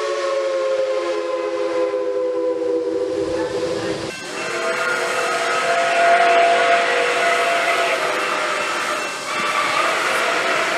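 A steam locomotive chime whistle sounds a chord of several tones that sags slightly in pitch. About four seconds in it breaks off abruptly into another steam locomotive whistle blowing long over loud steam hiss.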